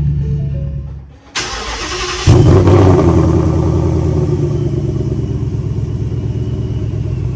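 Supercharged 2020 Ford Mustang GT's 5.0 V8 cold start: the starter cranks for about a second, the engine catches with a loud burst about two seconds in, then settles into a steady idle.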